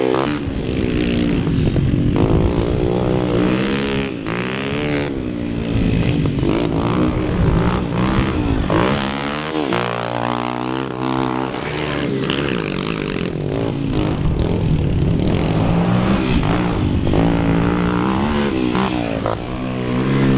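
Small four-stroke Yamaha pit bike engines revving on a dirt track, the pitch climbing and dropping again and again as the riders open and close the throttle through the corners.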